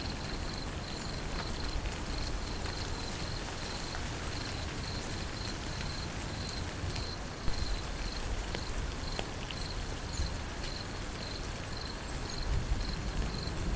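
Steady rain falling, with an insect chirping evenly at about three high chirps a second.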